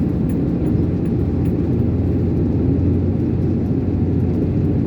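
Iveco concrete mixer lorry's diesel engine and road noise, a steady low drone while cruising loaded along the road.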